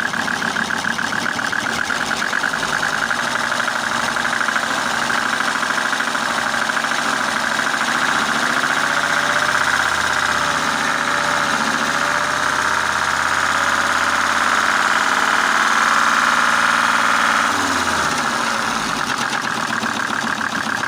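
Mercedes-Benz OM605 five-cylinder diesel running with a knock, rough and missing on a cylinder, a fault whose cause is not yet known. It grows a little louder through the middle and drops back abruptly near the end.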